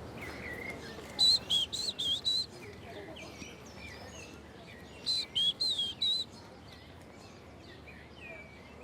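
Short-toed treecreeper singing: two short phrases of about five high, clear notes each, a few seconds apart, with fainter bird chirps in between.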